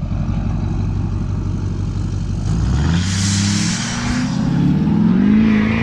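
Truck engine pulling under load: it runs low and steady, then revs up sharply about two and a half seconds in and holds at high revs, with a rushing hiss as it climbs.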